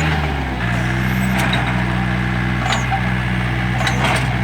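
Tractor engine running steadily, its speed dropping slightly about half a second in, with a few short knocks or cracks over it.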